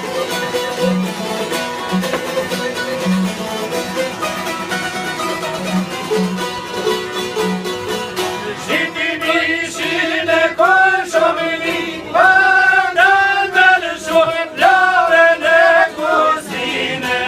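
Albanian folk song: a plucked string instrument plays an instrumental passage, and about nine seconds in a singer comes in with long, wavering held notes over the strings.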